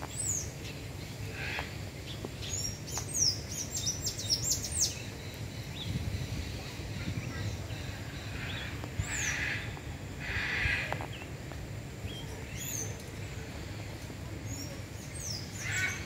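Birds chirping: short, high, downward-sweeping notes, with a quick run of them a few seconds in and single calls later, over a steady low background rumble.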